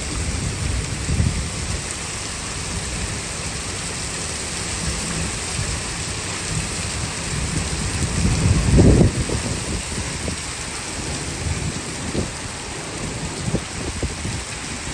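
Heavy rain falling steadily in a windy thunderstorm, with low rumbles of thunder: a short one about a second in and a louder, longer roll about eight to nine seconds in.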